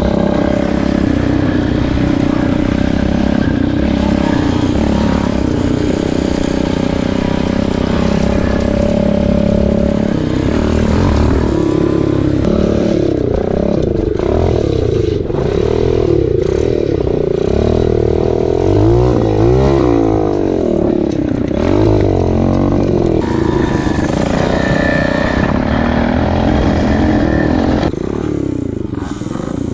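Pit bike engines running while riding, revving up and down, with a cluster of rising and falling revs about twenty seconds in. The level drops a couple of seconds before the end.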